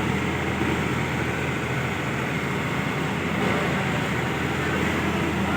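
Hitachi excavator's diesel engine running steadily, a low, even drone.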